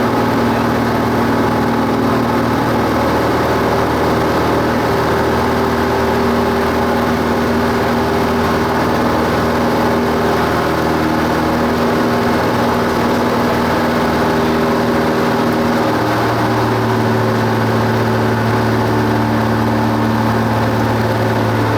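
Cessna 172 Skyhawk's piston engine and propeller running with a loud, steady drone, its tone shifting about sixteen seconds in.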